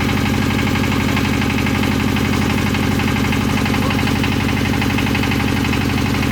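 Engine running steadily at a constant speed with a fast, even pulse, typical of machinery working at a rice harvest.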